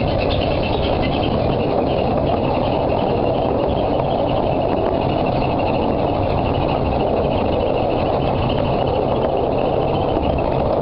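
Miniature steam railway train running: a steady rumble and clatter with no break or change.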